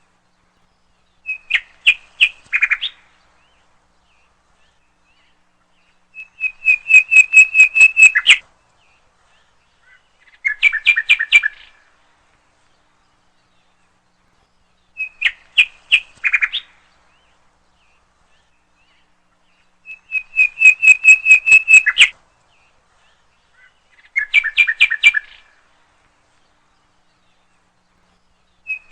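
A bird calling in bursts of rapid chirping notes, each burst about two seconds long, separated by a few seconds of silence. Three different phrases follow one another, and the same sequence of three repeats about halfway through.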